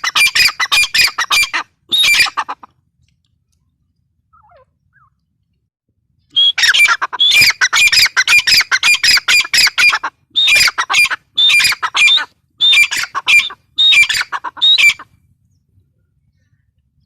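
Grey francolin calling: loud, harsh notes repeated rapidly in runs. A run of calls ends about two seconds in, and after a few seconds of silence a longer series of call runs starts and goes on for about eight seconds before stopping near the end.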